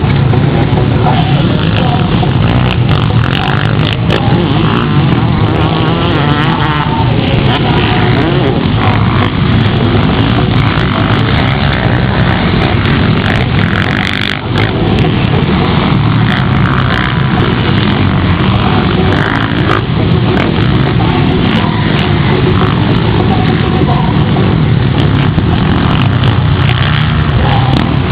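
Motocross motorcycle engines racing, a loud, steady din with no let-up.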